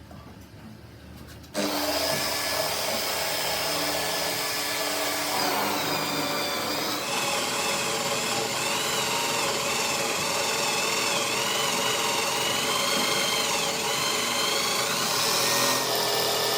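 An electric power tool switches on about a second and a half in and runs steadily, its high whine wavering up and down in pitch as it is pressed into the work.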